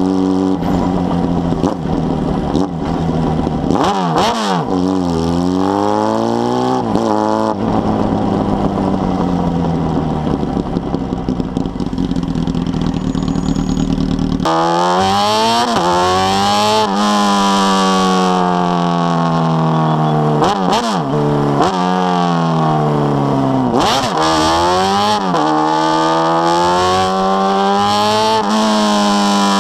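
Honda Hornet's four-cylinder engine breathing through a 4-into-1 exhaust, loud throughout. It revs up and falls back again and again, each rise broken by a quick drop in pitch as it shifts up through the gears, with a sudden jump in volume about halfway through.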